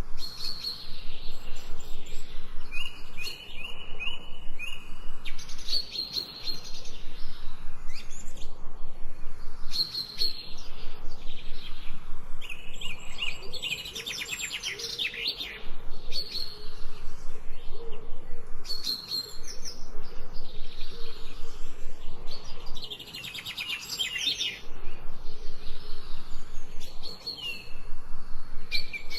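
Songbirds singing: short whistled phrases repeating every couple of seconds, with fast trills about halfway through and again near the end.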